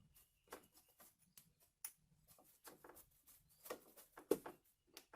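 Faint, irregular clicks and light taps of belt sander parts being handled and fitted by hand.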